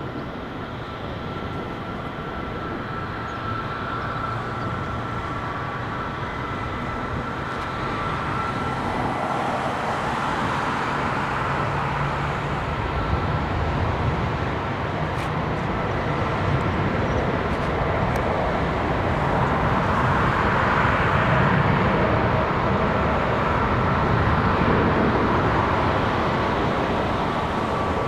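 Jet airliner's engines running at takeoff power: a steady whine over a broad rumble that grows gradually louder, then eases slightly near the end.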